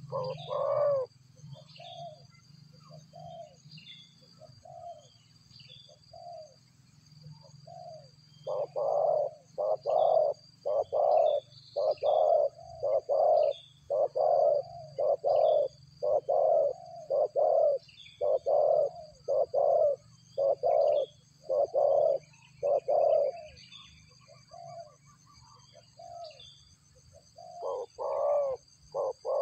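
Low, hollow, dove-like cooing notes used as a bird-trapping lure call. They come singly at first, then in a fast run of about twenty notes, roughly one and a half a second, with faint higher chirps in between. Steady high-pitched tones run underneath.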